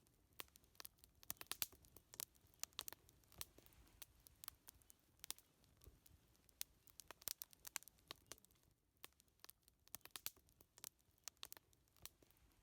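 Wood fire crackling: irregular sharp pops and snaps, sometimes several in quick succession.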